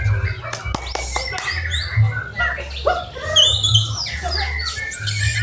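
Several white-rumped shamas (murai batu) singing at once, a dense chorus of overlapping whistles, trills and chirps, over a low steady hum.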